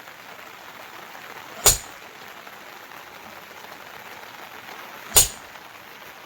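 Steady hiss of rain, broken by two sharp knocks about three and a half seconds apart.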